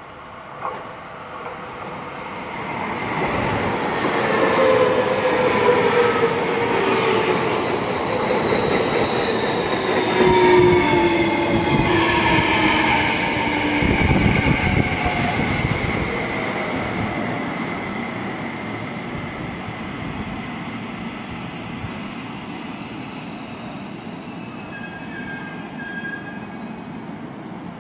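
Seibu 30000-series electric train arriving and braking. Several whining tones fall steadily in pitch as it slows, and a steady high wheel squeal joins about halfway through. The sound eases off as the train comes to a stop.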